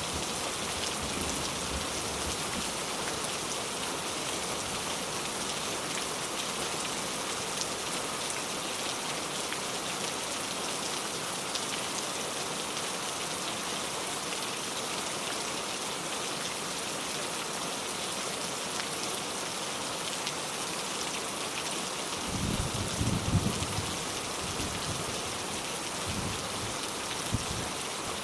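Steady, even rain pattering down. About three-quarters of the way through, a low rumble of thunder rolls in and keeps going to the end, swelling briefly soon after it starts.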